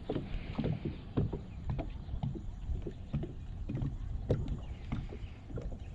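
Small waves slapping and knocking against the hull of a fishing boat in quick, irregular strokes, over a steady low rumble.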